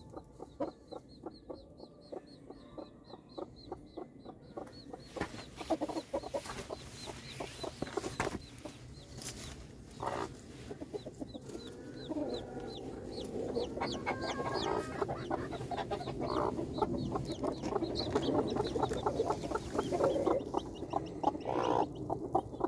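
A green-egg mother hen clucking to her newly hatched chicks, which peep in quick high chirps throughout. The clucking grows louder and busier after the first few seconds.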